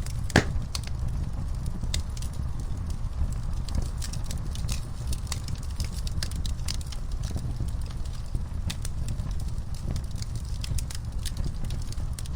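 Wood fire crackling in a fireplace: scattered sharp pops and snaps over a steady low rumble, with one louder pop about half a second in.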